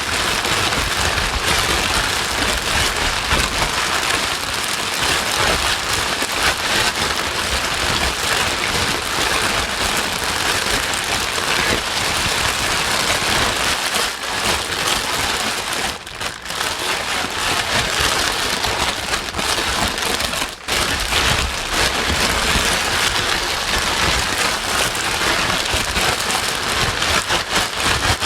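Steady, loud rain-like white noise, a dense even hiss with a patter texture, played as baby-soothing sleep sound. It dips briefly twice a little past the middle.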